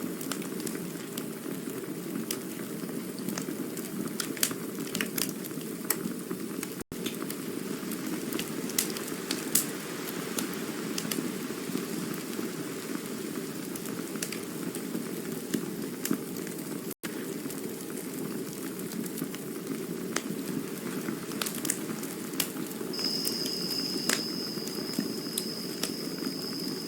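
Campfire burning: a steady low rush with scattered sharp crackles and pops. A thin, high, steady whistle sounds for about three seconds near the end. The sound cuts out for an instant twice.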